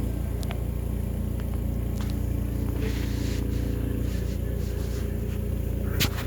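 Steady low hum, with two sharp clicks near the end.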